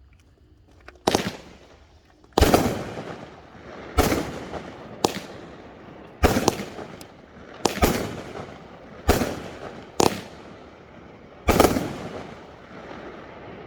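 Pyro Diablo Spinosaurus 9-shot 200-gram firework cake firing: nine loud shots about a second or so apart, each trailing off in a fading rumble and hiss.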